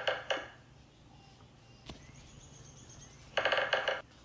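A fast, pitched rattle of evenly spaced pulses, heard as two bursts: one cutting off just after the start and a louder one about three and a half seconds in. A single click falls in the quiet stretch between them.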